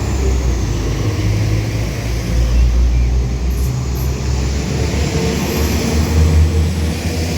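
Northern Class 195 diesel multiple unit pulling out of the station, its underfloor diesel engines working under power with a steady, loud low rumble.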